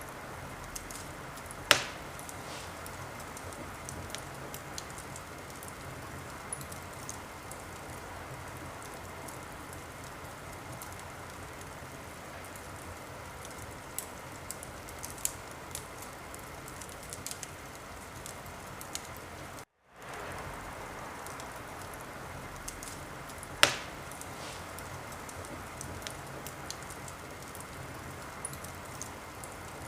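Wood fire crackling in a fireplace: a steady hiss with scattered small crackles and two sharp loud pops, one about two seconds in and one about six seconds before the end. The sound cuts out for a moment about two-thirds of the way through, then fades back in.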